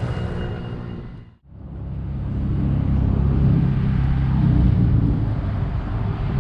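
Low rumble of street traffic with a motor vehicle's engine running. It cuts out abruptly about a second and a half in, then the rumble comes back.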